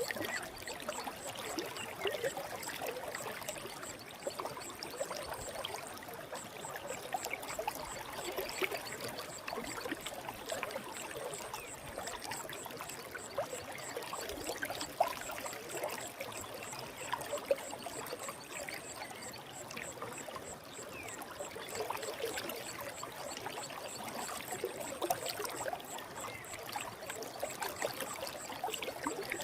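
A forest stream flowing steadily: a continuous rush of water full of small gurgles and splashes.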